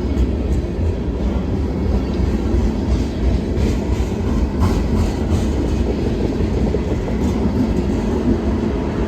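Train rolling past: a steady low rumble of rail cars on the track, with a few faint wheel clicks around the middle.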